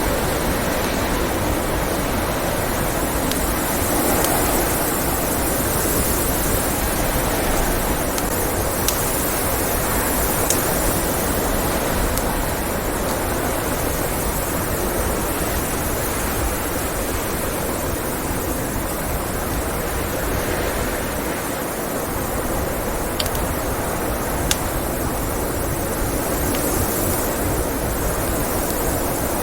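Steady blizzard wind noise, with a few sharp pops from a crackling wood fire.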